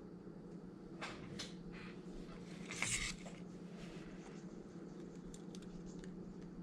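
Light clicks and taps of small parts and tools being handled at a phone-repair bench, with one brief, louder scrape or rustle about three seconds in, over a steady low hum.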